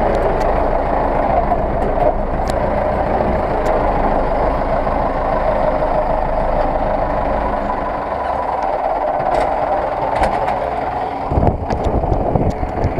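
Zetor 6911 tractor's diesel engine running steadily, with a few low thumps near the end.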